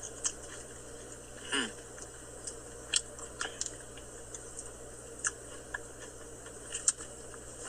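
Faint scattered clicks and mouth sounds of someone eating, with a short hum-like vocal sound about a second and a half in.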